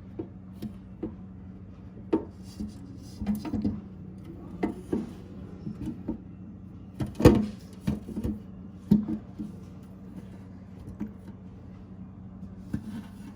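Plastic refrigerator compartment door handled and pushed shut to test its repaired catch: a series of light clicks and knocks, the sharpest about seven seconds in. A steady low hum runs underneath.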